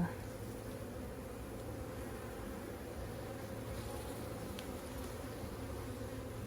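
Honeybee colony buzzing in a steady hum around an open hive, with one faint click about four and a half seconds in.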